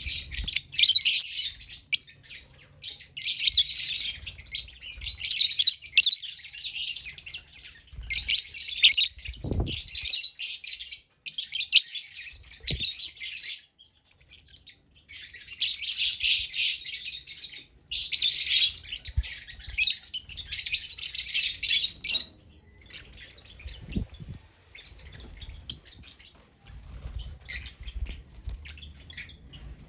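Lovebirds chattering in bouts of rapid, shrill chirps with short pauses between them. The chatter stops about two-thirds of the way through, leaving fainter scattered ticks and rustling.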